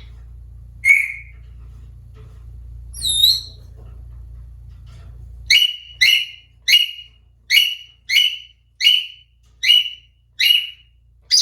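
African grey parrot calling: a couple of separate whistled calls, then a run of about nine short, identical whistled notes, spaced a little more than half a second apart. A low steady hum behind it cuts off about halfway through.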